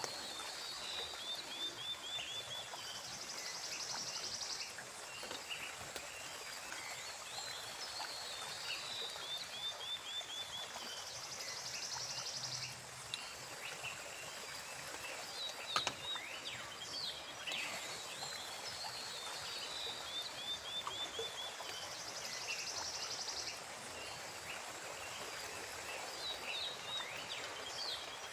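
Forest ambience over the steady hiss of a small stream, with animal calls repeating about every ten seconds: a quick run of falling chirps followed by a short buzzy trill. A single sharp click comes a little past halfway.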